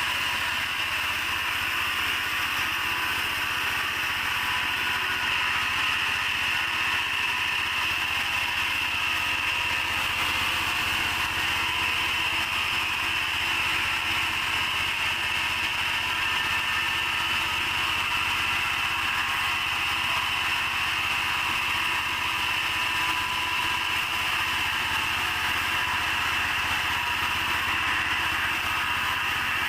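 Sawmill machinery running steadily: a constant high whine over a low engine drone, with no break.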